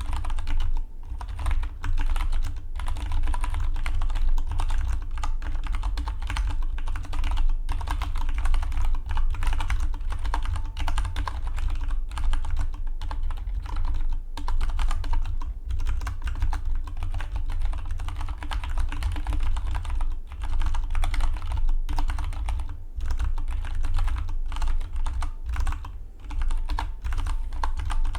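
Fast, continuous typing on a Dygma Defy split mechanical keyboard: a dense stream of key clicks, broken by a few brief pauses.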